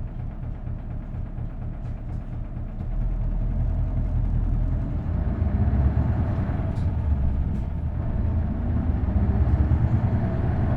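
V8 diesel engine of an Isuzu Erga city bus with a five-speed manual gearbox, running steadily at first, then louder about three seconds in as it pulls under load, its note rising, easing briefly near eight seconds and climbing again, as with a gear change.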